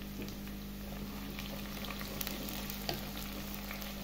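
Chopped garlic, ginger and green chillies sizzling in hot oil in a clay pot, with many small scattered crackling pops over a steady low hum.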